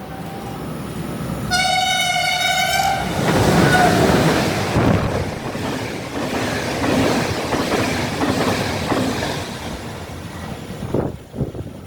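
Train horn sounding: a brief toot, then one steady blast of about a second and a half. The train then passes close by, its wheels rumbling and clattering on the rails, loudest just after the horn and dropping away near the end with a few knocks.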